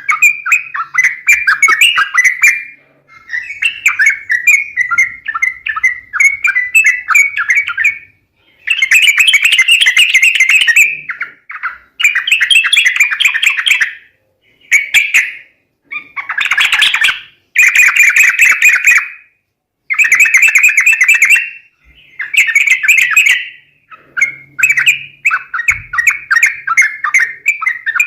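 Yellow-vented bulbuls (trucukan) calling in bubbly, chattering phrases. Each phrase lasts one to three seconds, with short pauses between them. This is a bird-lure call recording meant to draw wild bulbuls in.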